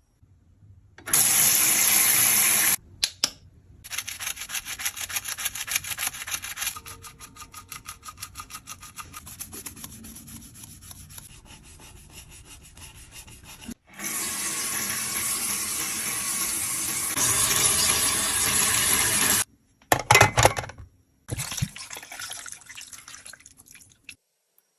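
Cosmetic powder being worked by hand with a tool: quick, even scraping and rubbing strokes, broken by two long stretches of steady hiss and a few sharp scrapes about twenty seconds in.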